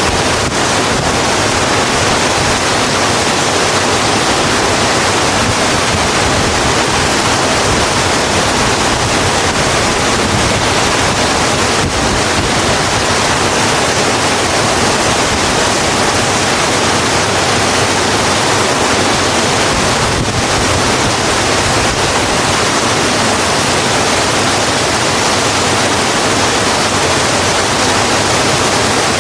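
Steady, heavy rain falling, an even hiss with no breaks, a couple of faint drip-like ticks.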